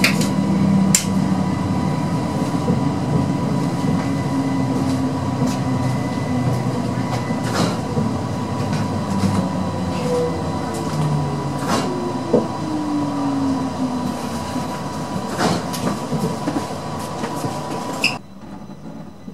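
Class 333 electric multiple unit running at speed, heard inside the passenger saloon: a steady rumble with a high steady whine, scattered clicks of the wheels over rail joints, and a whine falling in pitch about halfway through. The noise drops abruptly to a much quieter level just before the end.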